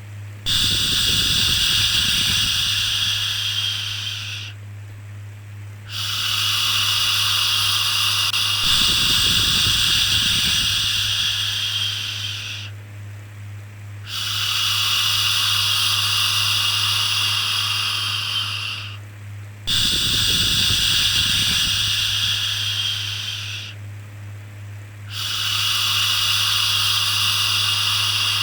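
Long 'shhh' shushing sounds for soothing a baby, repeated five times, each lasting about four to six seconds with short pauses between, over a steady low hum.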